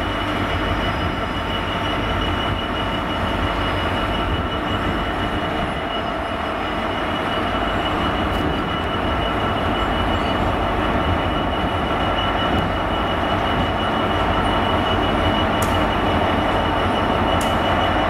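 British Rail Class 66 diesel locomotive's two-stroke V12 engine running as it hauls a freight train slowly past, with a steady high-pitched squeal from the train. It grows slightly louder as the locomotive approaches.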